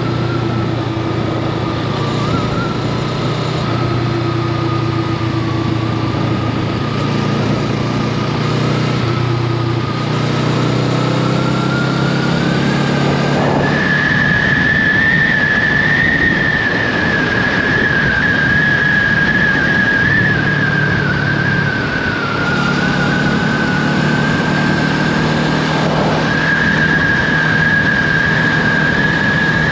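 Honda Rebel 500's parallel-twin engine running steadily while under way, with a thin high whine over it. Both climb as the bike picks up speed about twelve seconds in, then hold.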